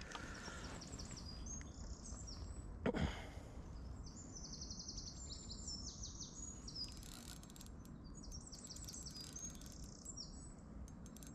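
Small birds singing high, quick repeated chirping phrases over faint steady outdoor background noise, with one brief louder noise about three seconds in.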